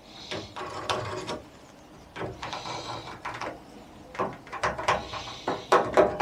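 Hand work lining up a vent and marking round it: irregular small clicks and knocks, with two short scraping strokes.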